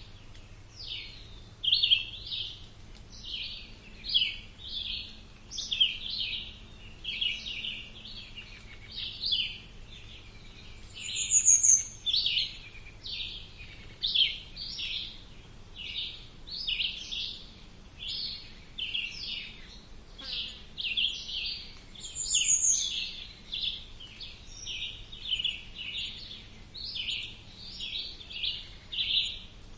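Songbirds chirping in a steady stream of short chirps, about two a second. A higher, louder call sounds twice, about 11 and 22 seconds in.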